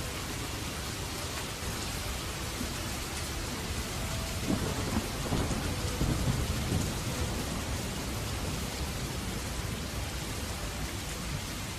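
Steady heavy rain, with a low thunder rumble swelling up about four seconds in and fading by about seven seconds; the sound stops abruptly at the end.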